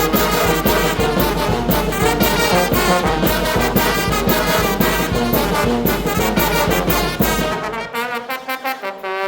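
Mexican brass band (banda) playing a huapango, trumpets and trombones over a steady beat of drums. Near the end the bass and drums drop out for about a second and a half, leaving only thinner high parts.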